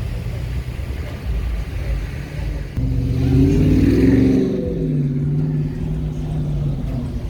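Street traffic: a car's engine rises in pitch and gets louder about three seconds in as it accelerates, then settles to a steady lower note, over a constant low rumble.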